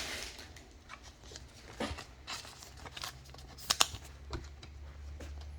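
Trading cards and their pack wrapper being handled: a scatter of short rustles and sharp snaps as cards are slid and flicked through, the loudest about two thirds of the way in. A low hum comes in a little past the middle.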